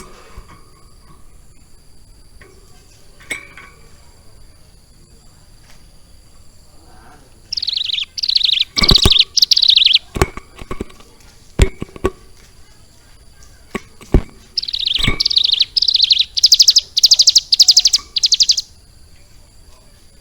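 Bar-winged prinia (ciblek gunung) singing two bouts of fast, rapidly repeated high chattering notes, each a few seconds long, one about a third of the way in and one in the second half; its song is filled with lovebird phrases it has been trained on. A few sharp clicks fall between and within the bouts.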